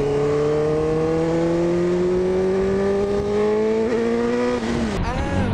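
2001 Suzuki GSX-R600's inline-four engine pulling under steady throttle, its pitch climbing slowly for about four and a half seconds, then dropping sharply near the end.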